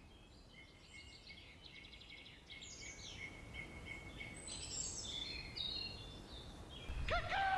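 Birds chirping and trilling in short, high repeated phrases over a faint background hiss. Near the end a louder, drawn-out cry begins and falls in pitch.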